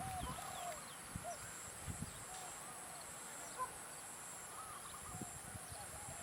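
Birds calling with short, arched, fairly low-pitched notes that repeat every half second or so, over a steady high hiss.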